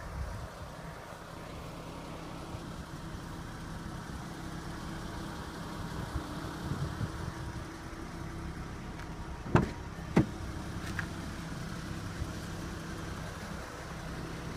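2014 Ford Mustang's 3.7-litre V6 idling steadily. Two sharp clicks about half a second apart come a little past halfway.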